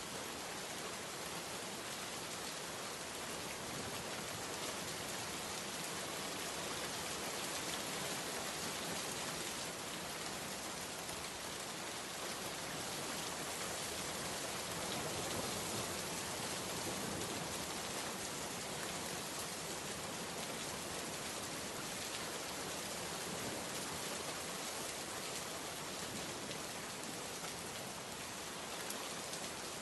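Steady heavy rain falling, a continuous even hiss of drops with no thunder or other events.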